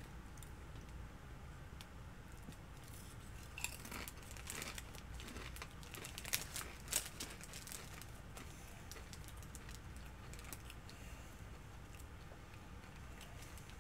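Faint crunching and chewing of a chipotle-flavoured corn tortilla chip, with a handful of sharp crunches between about three and a half and seven seconds in.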